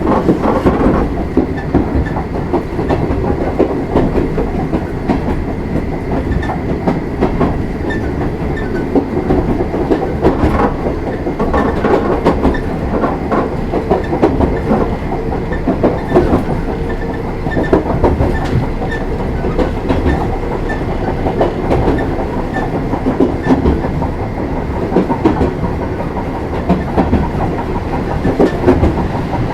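Oigawa Railway 16000 series electric train (ex-Kintetsu) running, heard from inside the carriage: a steady rumble with irregular clacks as the wheels pass over rail joints.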